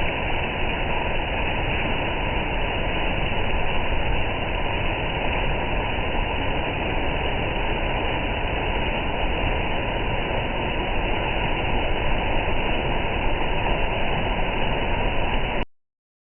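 Waterfall rushing: a loud, steady roar of falling water that cuts off abruptly near the end.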